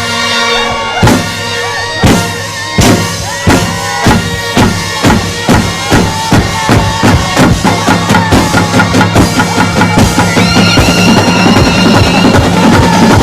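Festival band playing: drum strokes that start about a second apart and speed up steadily into a fast, driving beat, under wind instruments holding long notes.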